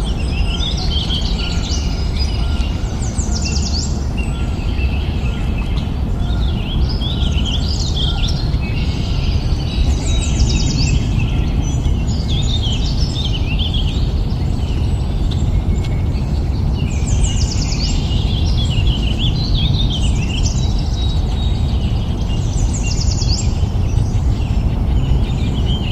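Small birds chirping and twittering in quick high bursts that recur every few seconds, over a steady low background rumble.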